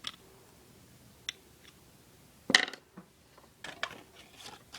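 Small hard plastic clicks and knocks of Lego pieces being handled: a few light taps, one louder click about halfway through, and a quick cluster of lighter clicks near the end.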